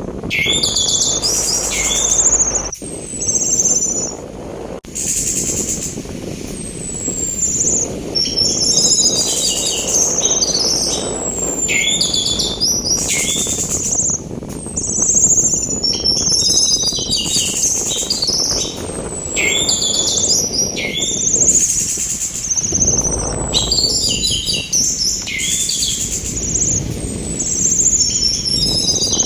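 Orange-headed thrush (anis merah) singing a varied song of rapid chirps, trills and falling whistles, phrase after phrase. Underneath it runs a steady rush of sea wind that swells briefly about three-quarters of the way through.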